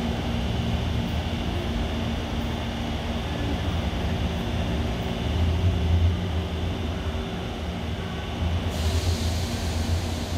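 Taipei Metro C321 train pulling into a station: a steady low rumble of wheels on rail with a few steady motor tones, swelling louder twice, and a high hiss that starts suddenly near the end.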